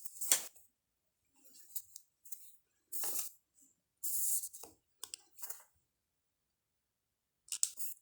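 Crafting handling noises as EVA foam pieces are handled and glued: a series of short rustles and scrapes with a few sharp clicks, separated by silence.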